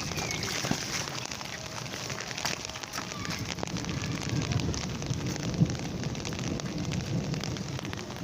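Monsoon rain falling steadily on hard surfaces, a dense crackle of drops, with one sharp knock about five and a half seconds in.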